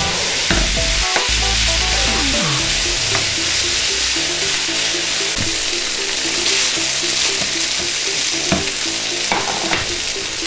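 Marinated shredded chicken sizzling and frying in hot vegetable oil in a pot, a steady dense crackle, with a few short knocks as it is stirred.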